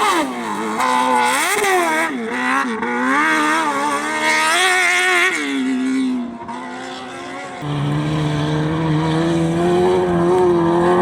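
Competition vehicle engine revving hard on a dirt slalom course, its pitch climbing and falling through throttle changes. About two-thirds of the way in, a second, lower engine note takes over and holds fairly steady.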